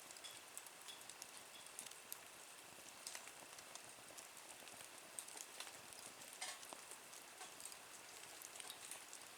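Small wood fire burning in a wood-burning camp stove, crackling faintly with a light sizzle and scattered small pops and ticks.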